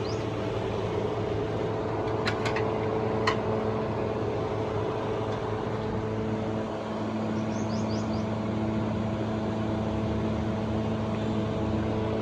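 A steady mechanical hum holding one pitch, with a few sharp clicks about two and three seconds in.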